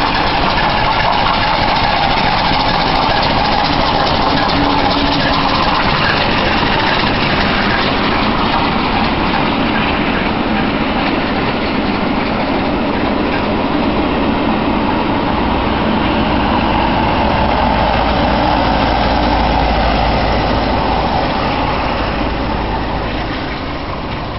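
Passenger train hauled by the steam locomotive 34067 Tangmere passing close by: a loud, steady rumble of coaches rolling over the rails. A deeper low rumble joins in the second half and eases off near the end.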